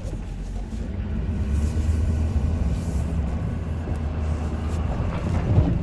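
2016 Ford F-250's 6.7-litre Power Stroke V8 turbo-diesel running steadily as a low rumble while the truck pulls plowed snow to the front of the driveway.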